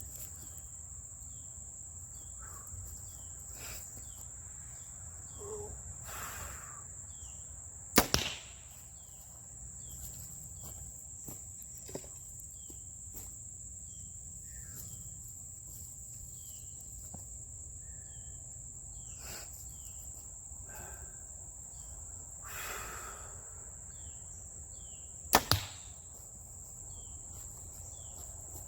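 Two arrows shot from a bow, about 8 and 25 seconds in, each a sharp snap of the string followed a split second later by the smack of the arrow hitting the target. A steady high-pitched insect drone runs underneath.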